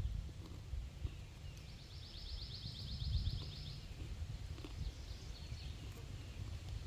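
A songbird singing one fast trill of evenly repeated high notes, about eight notes a second, lasting a little over two seconds, with a few shorter chirps later.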